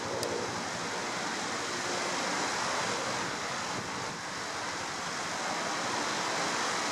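Steady rushing of flowing water, with one brief high click just after the start.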